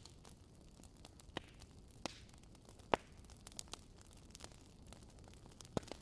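Wood fire crackling: irregular sharp pops and snaps, the loudest about halfway through, over a low steady hiss.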